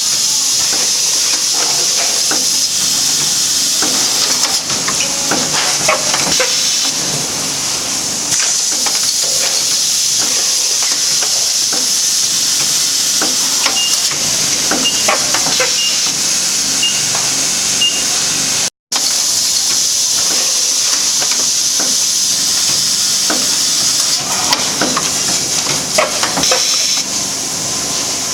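Automatic vacuum packing machine running: a loud, steady hiss of air with scattered clicks and knocks from its moving parts. About halfway through come five short high beeps, about a second apart.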